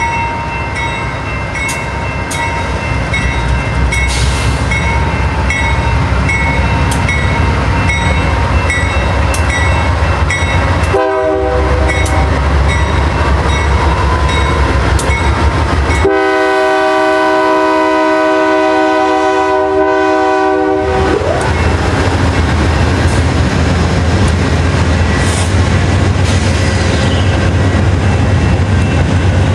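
BNSF C44-9W (Dash 9) diesel locomotive leading an Amtrak passenger train past, its engine rumbling louder as it nears and its bell ringing steadily. About eleven seconds in the air horn gives a short blast, then a long blast of about five seconds that sags in pitch as it cuts off. After that the bi-level Superliner cars roll by with a steady rail rumble.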